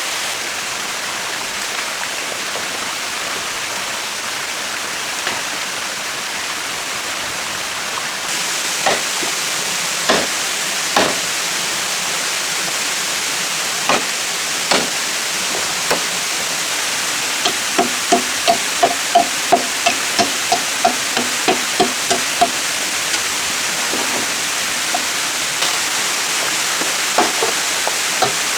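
Tool strikes on timber over a steady rushing hiss: a few single knocks, then a quick run of about fifteen ringing blows at roughly three a second, then a few more near the end.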